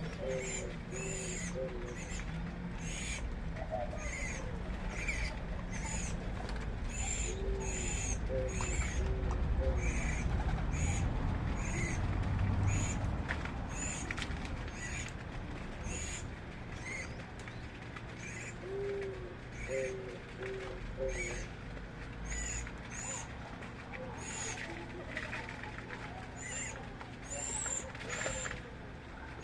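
Birds calling: a short, high-pitched call repeats about once a second throughout. Three times a bird gives a run of four or five low hooting notes, near the start, about a third of the way in and about two thirds of the way in.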